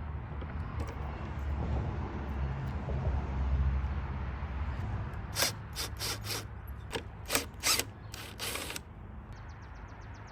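Ratchet wrench clicking in about eight short bursts over a few seconds past the middle, working the fasteners on a push mower's front axle during disassembly. A low rumble fills the first half.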